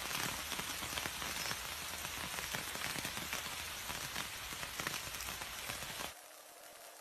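Rain falling steadily, with many individual drops pattering, cut off abruptly about six seconds in, leaving a fainter hiss.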